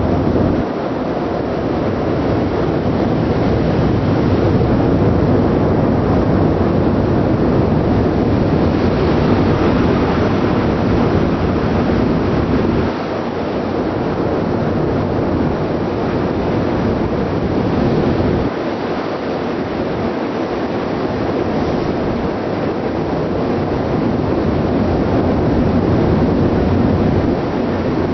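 Steady wind rush and ship noise on deck at sea: wind buffeting the microphone over the low rumble of the ship's engine and exhaust, with the sea beneath. The low rumble eases for a stretch about halfway through.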